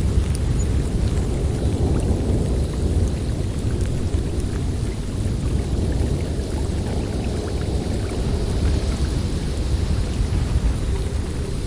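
Blizzard wind blowing steadily, a deep rumbling noise with a fainter hiss above it and no pause.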